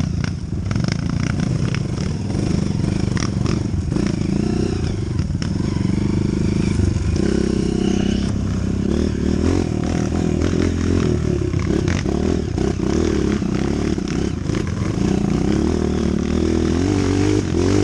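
Trail motorcycle engine running, its pitch rising and falling as the bike is ridden over an off-road trail, with frequent clattering knocks from the bike over rough ground.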